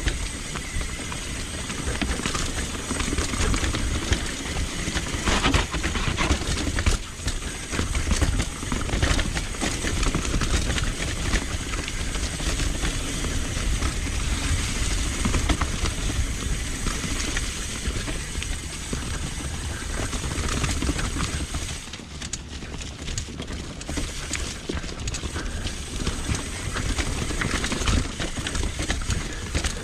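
Mountain bike riding down a rough, rocky technical trail: steady tyre noise on dirt and stone with frequent knocks and rattles from the bike.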